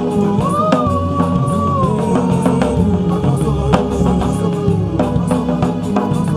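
Instrumental worship music: a drum kit and bass keep a steady groove under a long held lead melody that slides up and then falls gently.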